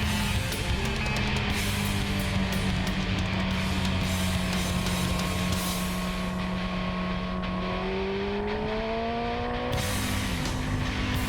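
Yamaha R6 inline-four engine running at steady high revs under wind rush; about eight seconds in the revs climb, then dip and vary near the end.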